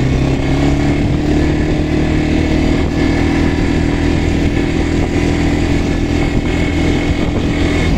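Quad bike engine running under way at a steady pitch, rising slightly in the first second.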